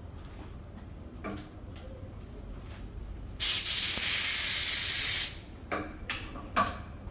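A steady hiss of pressurised spray lasting about two seconds, with a few light knocks shortly before and after it.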